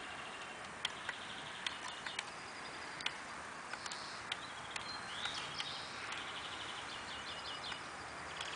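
Several birds singing and calling, with repeated chirping trills and a few sharp clicks over a steady hiss.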